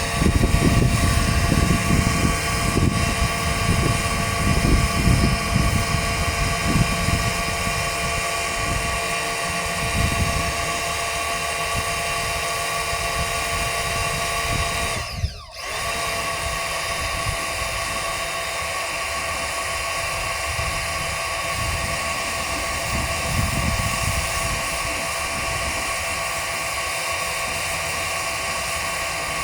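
Pressure washer running steadily: a whining pump motor over the hiss of the spray, with heavy low rumbling during the first part. The sound briefly drops out about halfway through.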